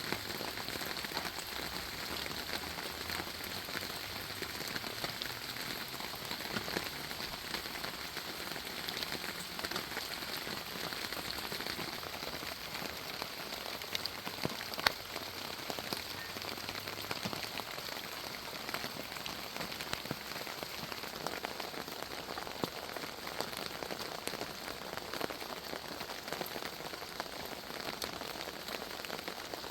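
Steady rain falling on a persimmon tree's leaves and fruit: an even hiss dotted with many close drops ticking, one louder drop about halfway through.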